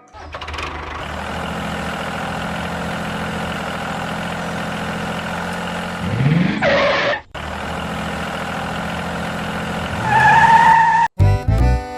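A small motor running with a steady hum, broken by abrupt cuts. About six seconds in there is a brief rising whine. Music comes in near the end.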